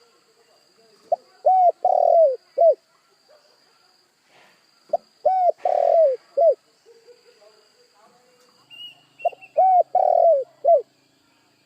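Spotted dove (tekukur) cooing its song three times, about four seconds apart. Each phrase is a short note, two quick arched coos, a longer coo and a closing coo.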